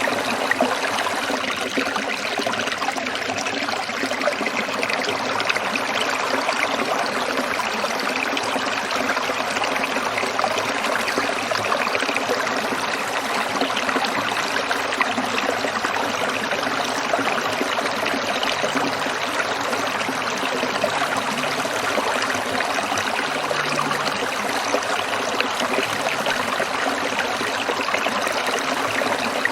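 Small stream trickling and babbling over stones, a steady even rush of water.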